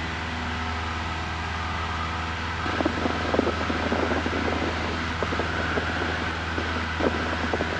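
Cabin noise of a Cessna 172N in flight: the four-cylinder Lycoming engine and propeller running at a steady drone under a broad rushing hiss, with irregular short crackles starting about three seconds in.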